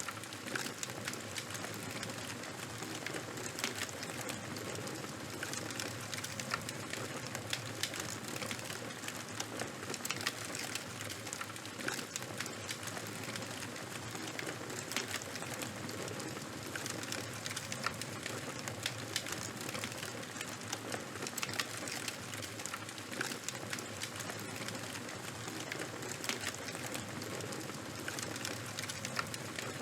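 Charcoal and wood fire burning: a steady hiss scattered with many small crackles and pops.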